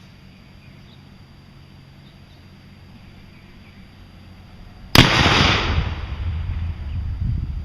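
A single gunshot about five seconds in: one sharp crack with a brief echo, followed by a low rolling rumble that lingers.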